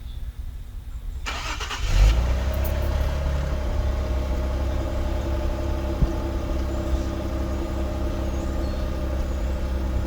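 Infiniti Q50S engine starting through a Rev 9 high-flow cat-back exhaust. It catches about a second and a half in with a brief loud flare, then settles into a steady idle.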